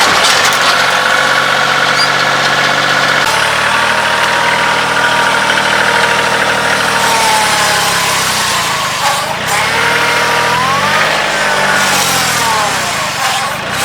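Kioti CK2610 compact tractor's diesel engine running under load, steady at first, then its engine speed rising and falling twice in the second half.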